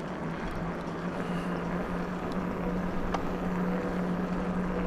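Electric bike's motor humming at a steady pitch while riding, over a constant rushing noise of wind and tyres.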